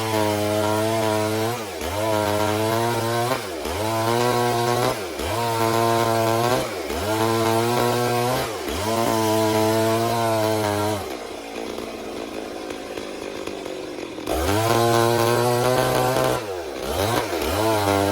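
Stihl MS 382 two-stroke chainsaw ripping a log lengthwise, engine held at high revs with a quick dip in speed every second and a half or so. About eleven seconds in the engine drops back for some three seconds, then revs up again and carries on cutting.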